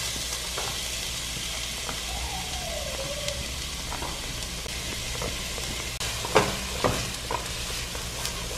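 Chopped onion sizzling in hot olive oil in a pan, a steady frying hiss. A couple of sharp knocks from a utensil on the pan come about six and a half and seven seconds in.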